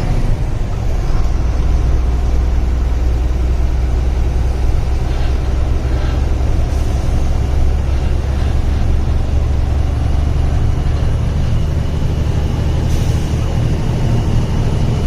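Diesel truck engine running steadily while driving, a continuous low drone with road noise.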